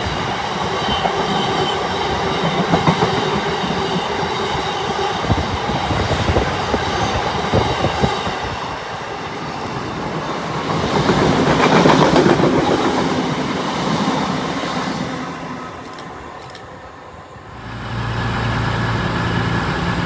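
Locomotive-hauled train running past on the rails, its wheels clattering rhythmically over the rail joints, swelling about two-thirds of the way through and then fading away. Near the end the sound changes abruptly to a steady low hum.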